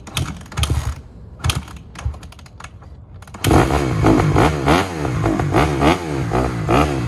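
Honda CRF150R dirt bike being kick-started: a few sharp mechanical clacks, then about three and a half seconds in the four-stroke single-cylinder engine fires and runs, revved up and down in quick blips. The bike has been sitting unused for a long time.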